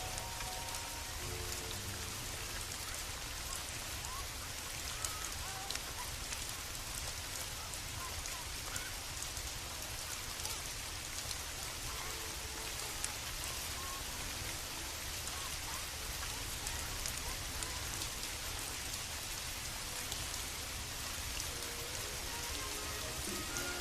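Steady rain falling, an even hiss with a low rumble underneath and scattered small ticks of drops.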